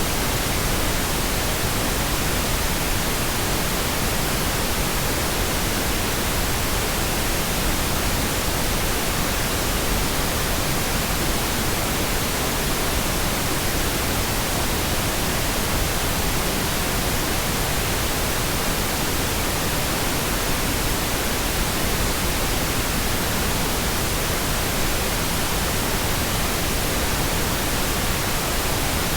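Pink noise: a steady, even hiss with no tones or breaks.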